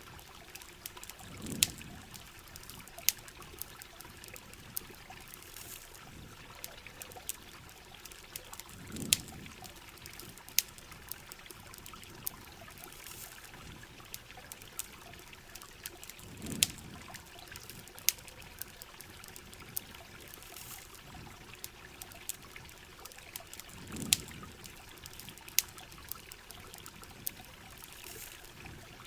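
Rain and trickling water as a steady hiss, with scattered sharp crackles of a campfire. A low, soft thud recurs about every seven and a half seconds.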